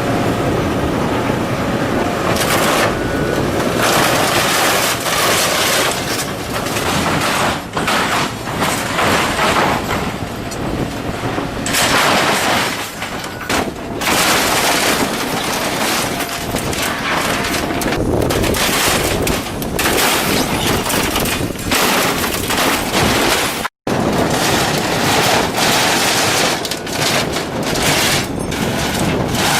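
Scrap aircraft metal being torn and crushed by heavy scrap machinery: a dense, continuous crunching and cracking with many sharp snaps. It cuts out completely for a split second about three quarters of the way through.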